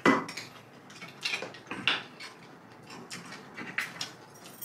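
Eating sounds at the table: a handful of short, sharp clicks and crunches at irregular intervals, the loudest right at the start, from utensils on plates and crisp fried food.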